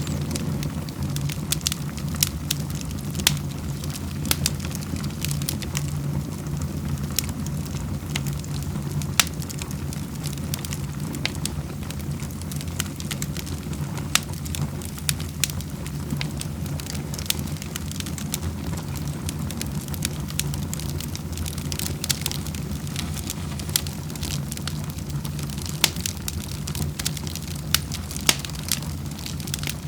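Wood fire crackling in a fireplace, with frequent sharp pops and snaps at irregular intervals over a steady low rumble.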